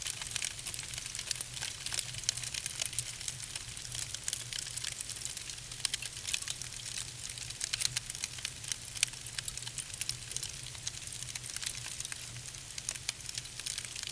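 Wood logs burning in a fireplace, crackling with dense, irregular sharp pops and snaps over a soft hiss and a steady low hum.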